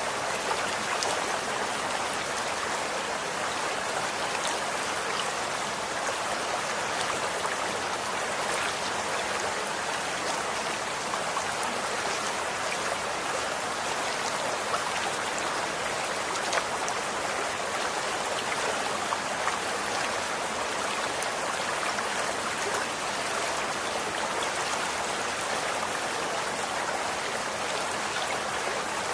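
Running water flowing steadily, an even rushing splash with small scattered droplet ticks.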